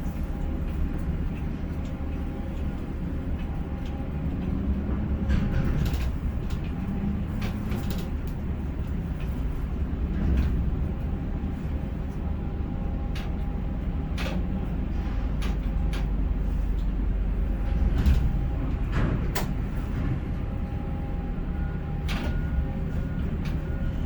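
Ship-to-shore container crane machinery running: a steady low drone with a few faint steady tones, broken by scattered clicks and clanks.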